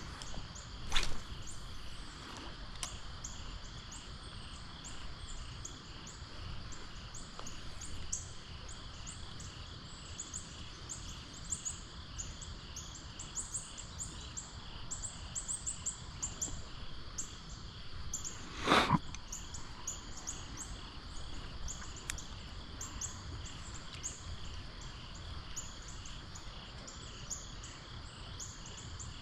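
Outdoor stream-side ambience: a steady low rush with dense, rapidly repeating high-pitched chirping, broken by two sharp knocks, one about a second in and one about two-thirds of the way through.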